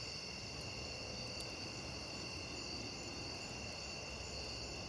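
Insects chirring steadily, a continuous high-pitched trill.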